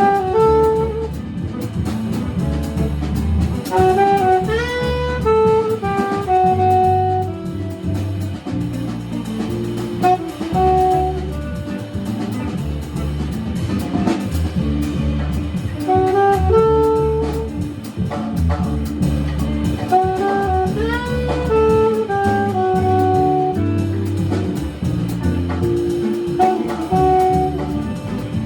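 A jazz quartet playing live: a horn plays melodic phrases, several notes scooping up in pitch, over a bass and drum rhythm section.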